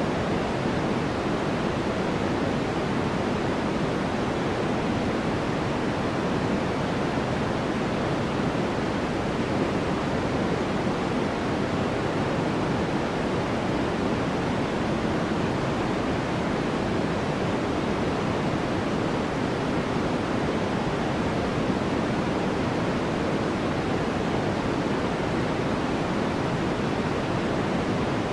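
Steady white noise for sleep: an even, unbroken hiss with no changes, its energy weighted toward the low and middle range.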